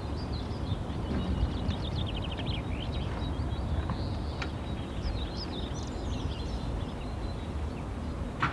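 Wild birds chirping and calling over a steady low rumble, with a quick rapid trill of repeated notes about two seconds in. A sharp click comes near the end.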